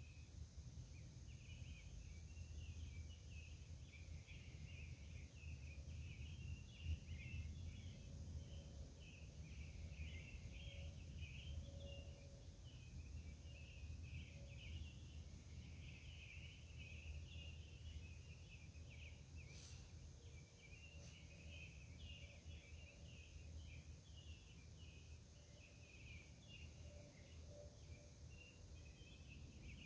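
Faint outdoor night ambience: a continuous, dense high-pitched chirring chorus over a low distant rumble, with no single event standing out.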